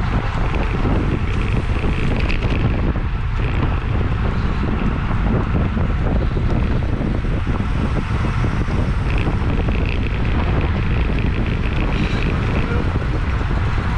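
Loud, steady rush of wind over the microphone of a camera on a racing bicycle riding at race speed.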